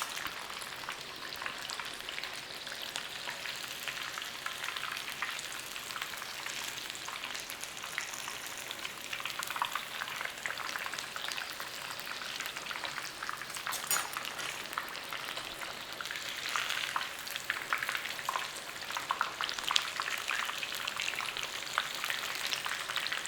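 Breaded chicken cutlets shallow-frying in hot oil in a pan: a steady sizzle with scattered crackles and pops, busier in the second half, and one sharp tick about halfway through.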